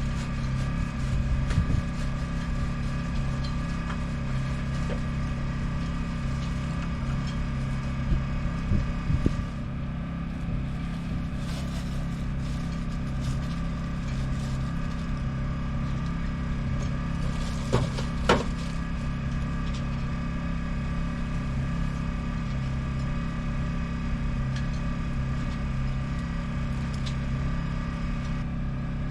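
A motor running steadily with an even drone, with a few short knocks and clicks about a third of the way in and a sharper pair past the middle.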